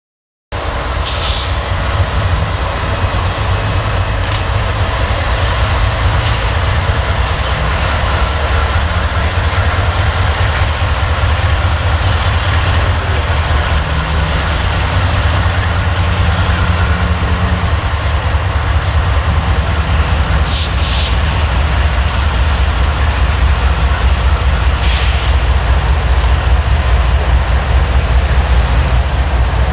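A train passing close by: a steady heavy rumble of wheels on the rails, with a few brief sharp high sounds over it.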